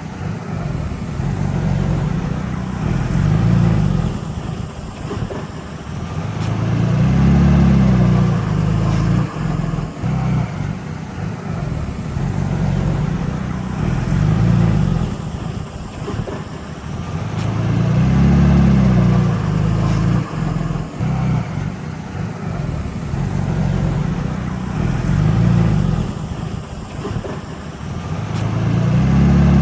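Diesel engine of heavy earthmoving machinery running under varying load, its low drone swelling and easing over and over, loudest about every eleven seconds.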